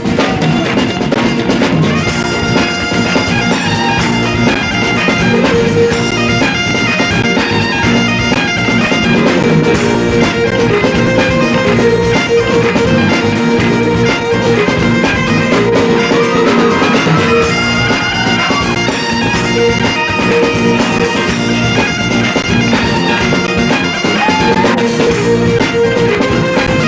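Folk band playing a fast set of Scottish reels, with bagpipes leading the tune over their steady drones and drums behind.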